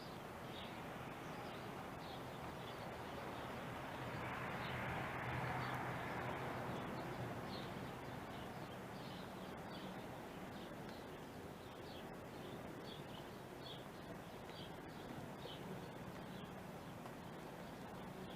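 Small birds chirping, short high chirps repeating a few times a second, over a steady outdoor background hiss. Midway a broad rushing noise swells and fades over a few seconds.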